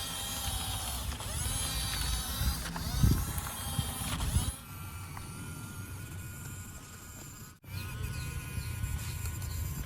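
Small electric motors and plastic gearing of homemade RC toy construction vehicles whirring and clattering, changing pitch as they work. There is a sharp knock about three seconds in, then steadier running after an abrupt cut near the end.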